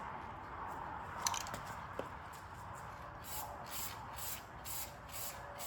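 Can of satin black aerosol spray paint working in short, high-pitched bursts, about three a second, over a steady hiss, with a couple of sharp ticks about a second in.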